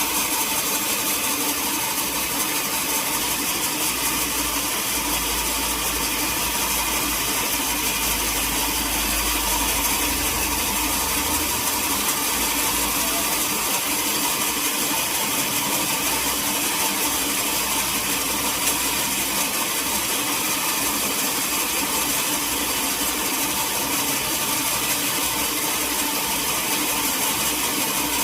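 Sawmill machinery running steadily: an even mechanical hum with steady tones over a bright hiss, and a low rumble that swells from about five to eleven seconds in.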